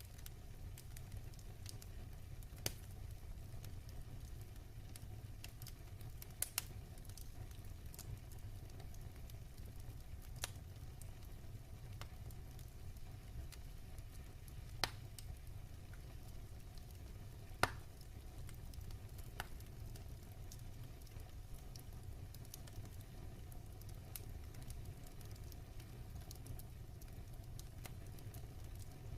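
Wood fire burning in a fireplace: a steady low rumble of flame with scattered sharp crackles and pops, the loudest pops about halfway and two-thirds of the way through.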